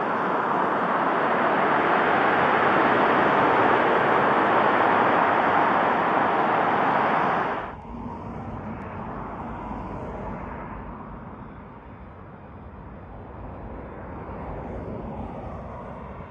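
Jet engine noise from an arriving Southwest Boeing 737, a loud steady rush that drops abruptly about halfway through to a much quieter, lower rumble.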